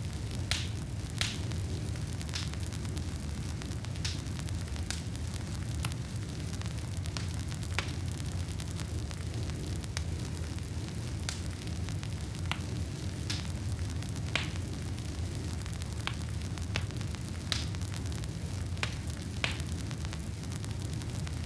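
Wood fire burning in a fireplace: a steady low rumble with irregular sharp crackles and pops, a few every couple of seconds.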